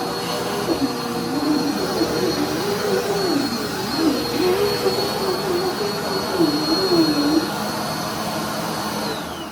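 Dirt Devil Endura Compact bagless upright vacuum running with a steady high motor whine. Near the end it is switched off, and the whine falls away as the motor spins down.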